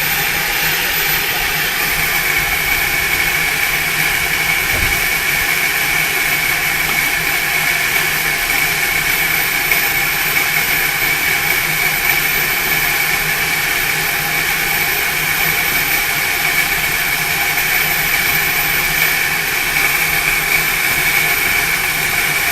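GWR 57xx-class 0-6-0 pannier tank steam locomotive standing with steam escaping in a loud, steady hiss that does not let up.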